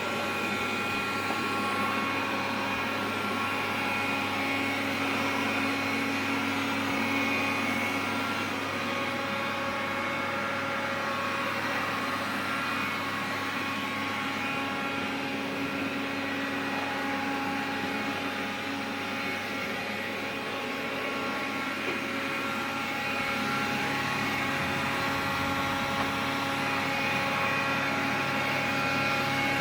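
Xiaomi robot vacuum cleaner running steadily: a whirring fan with several steady whining tones over it, a noise the owner regards as abnormal. The sound eases slightly about twenty seconds in, then comes back up.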